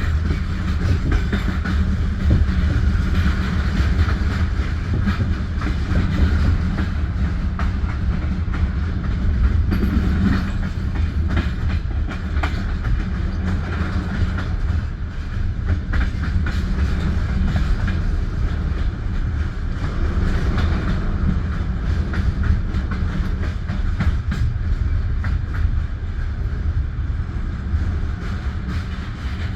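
Passenger train carriage running on the rails: a steady low rumble of the wheels with frequent clicks and knocks from the track, heard from inside the carriage at the window.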